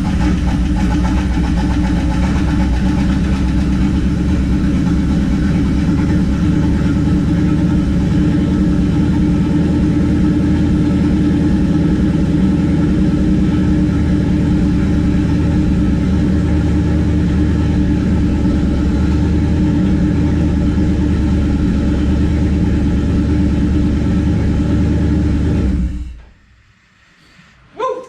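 1969 Plymouth Valiant's turbocharged 360 Magnum V8 running steadily on its first start after new cylinder heads were fitted, then shut off about 26 seconds in. A short, sharp sound follows just before the end.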